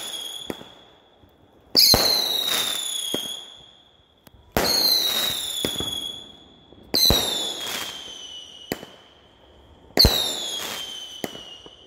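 Fireworks shots launching one after another, four times, about every two and a half seconds. Each starts with a loud bang followed by a whistle that falls slightly in pitch and fades over a second or two, with a few sharp cracks in between.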